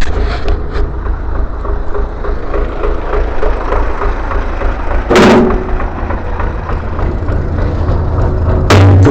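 Motorcycle engine running steadily, with a short loud noise about five seconds in and another near the end.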